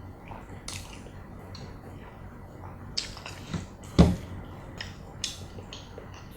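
Close-miked eating of fried chicken: wet mouth smacks and chewing, with a single louder thump about four seconds in.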